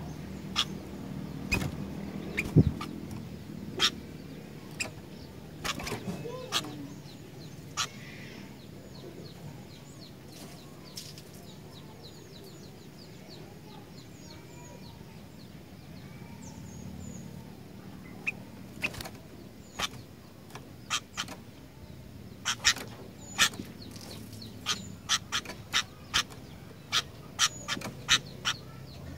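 Sooty-headed bulbuls calling in short, sharp chirps at irregular intervals, sparse through the middle and coming thick and fast in the last third, over a low steady hum.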